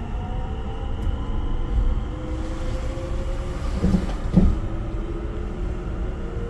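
Limited express train heard from inside a passenger car while running: a steady low rumble with a faint, slowly rising whine, and two short knocks about four seconds in.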